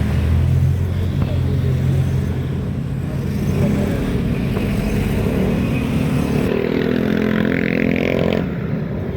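A motor vehicle engine running on the road with traffic noise. Its note rises in pitch for a couple of seconds near the end, then cuts off suddenly.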